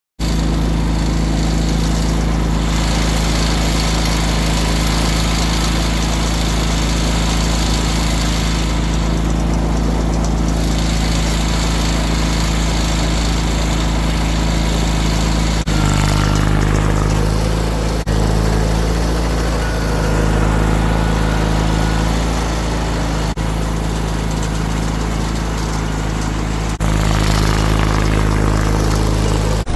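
John Deere 317 garden tractor engine running steadily, its note shifting abruptly a few times.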